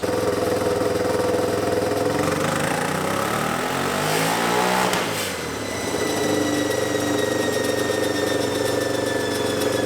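Turbocharged Yamaha Raptor 660 single-cylinder engine running on a chassis dyno. Its note bends in pitch about halfway through and then settles steady again, with a thin high whine slowly falling in pitch through the second half.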